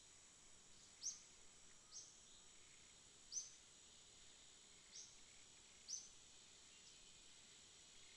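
Faint night ambience: a steady high thin insect drone, with short high chirps every second or so, five in all.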